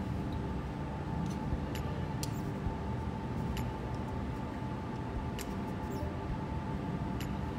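Scattered light clicks and taps of small parts being handled, about eight in all, over a steady low hum with a faint steady tone.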